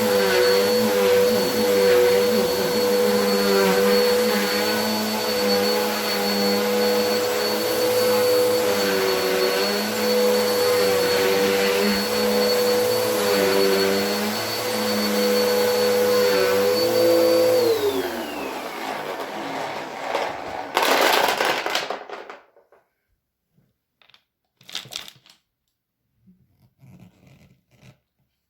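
Vacuum cleaner motor running with a steady whine that wavers slightly as the suction is loaded, then switched off about two-thirds of the way in, its pitch falling as it winds down. A short burst of rustling noise follows, then a few faint clicks and knocks.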